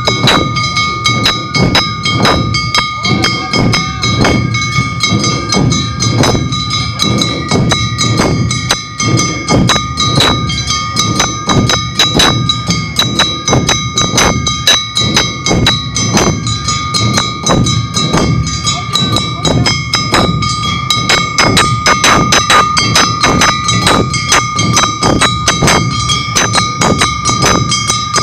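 Awa Odori festival band music played live: fast, steady strikes of drums and kane gongs over held high tones.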